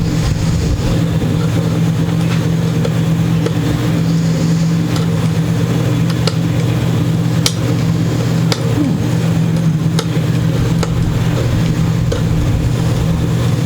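A steady low mechanical hum, with a few faint, sharp clicks scattered through it.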